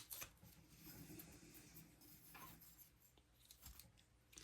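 Faint scraping of a carving knife shaving small slivers off a hardwood bird blank, in a few short, quiet strokes.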